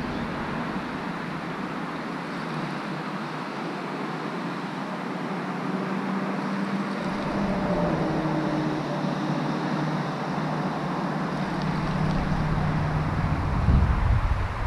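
Steady hiss of wind and rain, with a faint low hum underneath. Wind buffets the microphone near the end.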